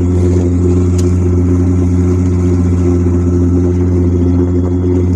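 Sailboat's engine running steadily under way, its pitch and level unchanging.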